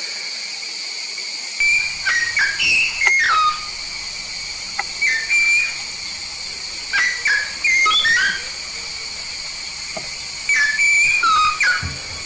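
Yellow-faced myna calling: loud whistled notes with sharp up-and-down glides, in three short bouts about a second to two long, over a steady high-pitched hiss.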